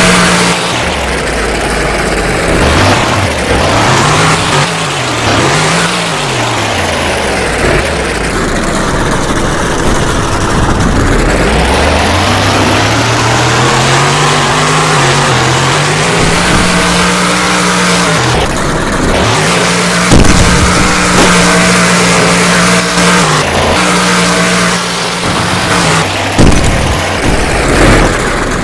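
Monster truck engine revving hard, its pitch surging up and down several times in the first few seconds, then climbing for several seconds and held at high revs with brief drops.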